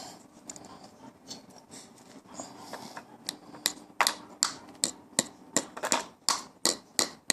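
Hammer striking a long nail to fix the perch onto a birdhouse: a few light taps, then from about three seconds in a steady run of sharper blows, about three a second.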